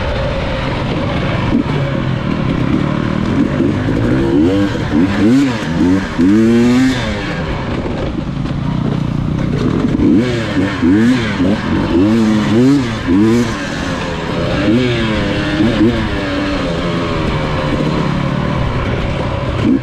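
Dirt bike engine running under way, revving up and down in quick repeated blips that rise and fall in pitch, with a steady engine drone between them.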